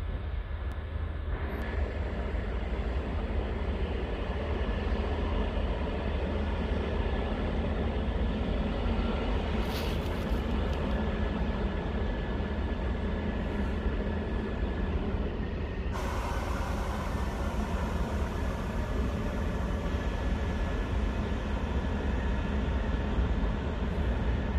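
Electric passenger train running past at a distance: a steady rumble with a thin, constant tone above it.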